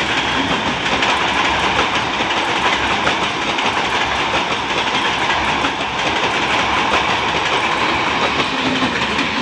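MEMU electric passenger train passing close at speed. A steady rumble of wheels on rails, with repeated clicks as the wheels run over rail joints.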